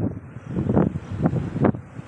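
Typhoon wind gusting in irregular blasts, buffeting the microphone.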